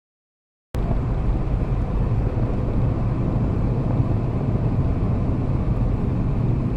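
Steady road and engine noise from a moving car as picked up by a dash camera, cutting in abruptly a little under a second in after dead silence, with a strong low rumble throughout.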